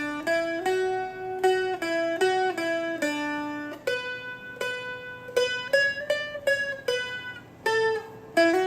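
Seagull Merlin M4 being picked slowly, one note at a time on the first string, playing a melody line of about fifteen notes, with a faint steady drone ringing under it.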